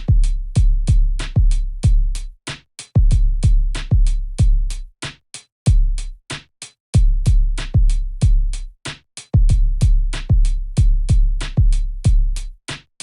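Hip-hop drum-machine beat with no vocals: crisp hi-hat ticks about five a second over deep, booming kick drums with long low tails. The low end drops out briefly several times, for instance around a third of the way in and about halfway through.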